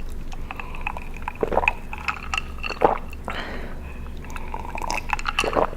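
A person drinking close to the microphone: three loud gulping swallows with small wet mouth clicks between them.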